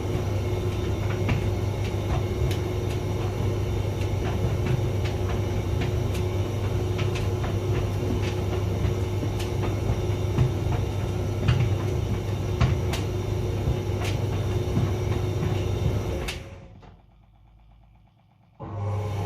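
Hotpoint vented tumble dryer running: a steady motor and drum hum with scattered light clicks and knocks from the tumbling load. About sixteen seconds in the running winds down to near quiet, then starts again abruptly near the end.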